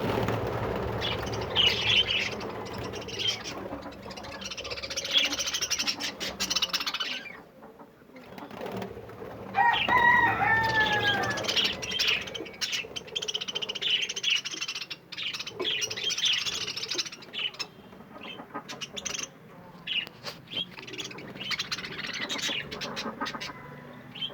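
A flock of budgerigars chattering in overlapping stretches, with one louder falling call about ten seconds in.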